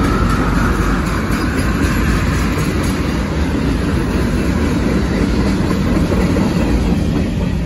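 Freight train of tank cars and covered hoppers rolling past: a steady, loud rumble, with the wheels clacking over the rail joints in the first few seconds.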